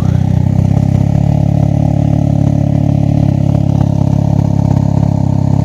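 Can-Am Ryker three-wheeler's engine idling steadily through a Brannon King aftermarket muffler, with a deep, loud exhaust tone even with the baffle fitted.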